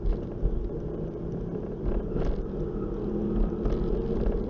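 Steady vehicle engine hum and road noise, with a few faint knocks.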